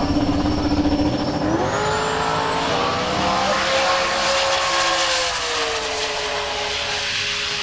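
Race car engine accelerating: a steady note climbs about a second and a half in, holds, then eases off a little. A thin high whine rises and falls with it.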